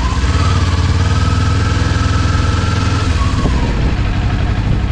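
Kawasaki motorcycle engine running steadily at low revs, with a faint high whine that fades out about three seconds in.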